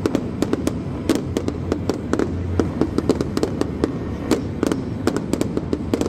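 Aerial fireworks bursting in a rapid, uneven string of sharp cracks and pops, over a continuous rumble of the display.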